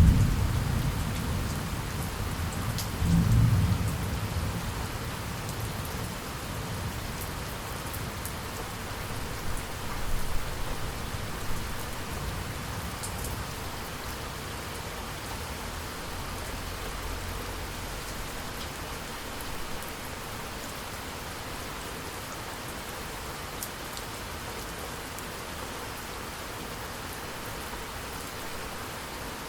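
Steady rain falling, with rolling thunder rumbling low at the start, swelling again about three seconds in and once more about ten seconds in, then dying away. After that only the steady rain hiss remains, with scattered drop ticks.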